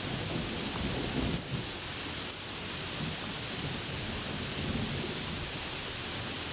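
Thunder rumbling low under steady heavy rain hiss. The rumble swells about a second in and again near five seconds, then dies away.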